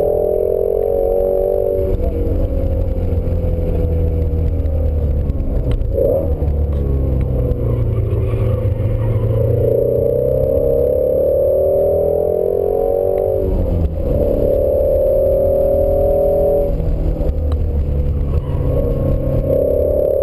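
2017 Ford Shelby GT350 Mustang's 5.2-litre flat-plane-crank V8 heard from inside the cabin while lapping a track. It runs hard under throttle with the revs climbing, and the revs snap down and back up around six seconds in and again around fourteen seconds in as gears are changed under braking and acceleration.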